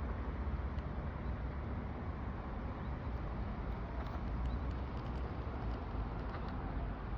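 Steady outdoor noise with a flickering low rumble, and a few faint high ticks around the middle.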